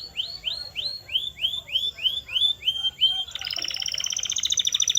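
Canary singing: a string of swooping, upward-sliding notes at about three a second, then about three seconds in it breaks into a fast rolling trill.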